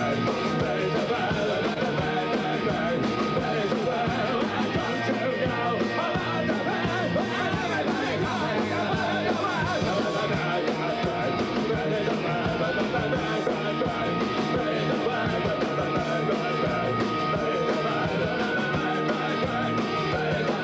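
Live rock band playing a song, with singing over it; the music runs at a steady level without a break.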